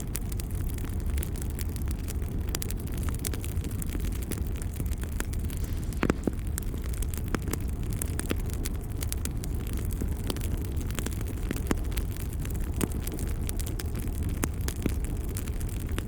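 Wood fire burning in a fireplace: a steady low rumble with irregular crackles and sharp pops, the loudest snaps about six seconds in and again near twelve seconds.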